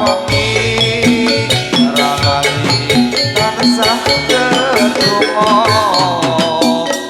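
Live Javanese gamelan music accompanying a jathilan dance: drum strokes and ringing metallophone tones in a busy, steady rhythm, with a wavering melody line entering about five seconds in.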